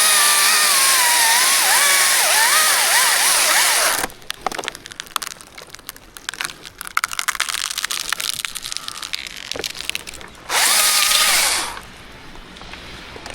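Chainsaw cutting into a birch trunk for about four seconds, its pitch dipping again and again as the chain bogs down in the wood. It stops, and several seconds of sharp cracking and snapping follow. Near the end the saw revs once more, briefly.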